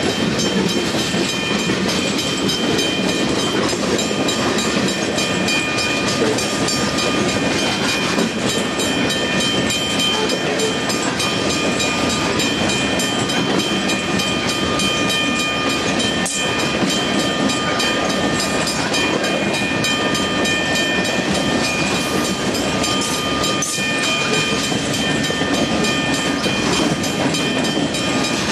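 A train running along the track: a steady rumble of wheels on rails, with thin high whining tones coming and going above it.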